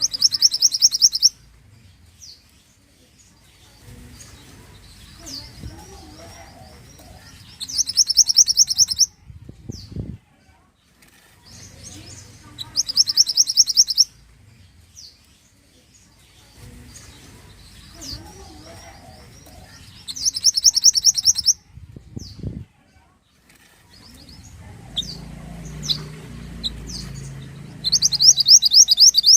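A mantenan songbird singing a loud, high-pitched, rapid trilled phrase about a second and a half long, five times at intervals of five to seven seconds, with soft chips in between.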